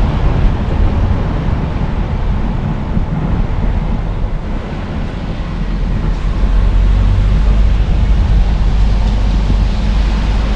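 A car driving, heard as a steady low rumble of road, engine and wind noise that grows a little louder about halfway through.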